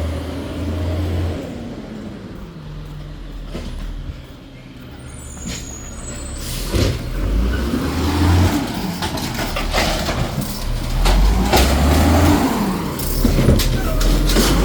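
Garbage truck engine revving hard, its pitch rising and falling twice in the second half, as it packs trash, with sharp metal clanks and a brief high squeal about five seconds in.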